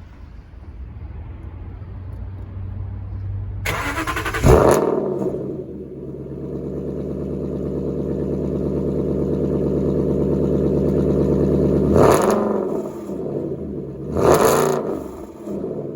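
Aston Martin Vantage GT8's 4.7-litre V8 through its full titanium exhaust, revving: an engine note that builds, sharp loud blips of the throttle about four, twelve and fourteen seconds in, and a steady held note in between that slowly gets louder.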